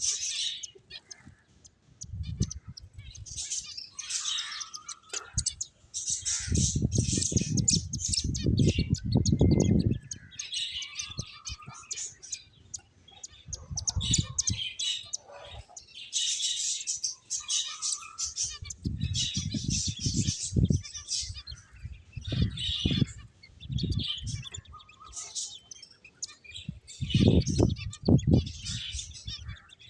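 Pet finches chirping in quick, high twittering clusters. Bursts of low rustling noise come and go several times alongside the chirps.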